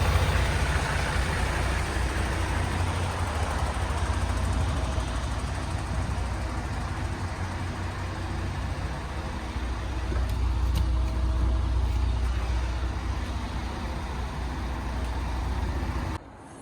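A MAN TGX 18.510 truck's 12.4-litre straight-six diesel running steadily with a low rumble, then shut off abruptly near the end.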